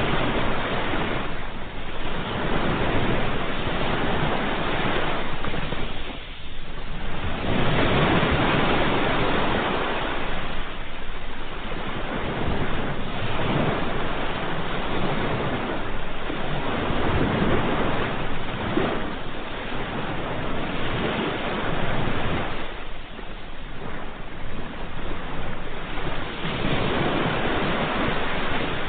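Ocean surf: waves breaking and washing in as a continuous rush that swells and eases every few seconds.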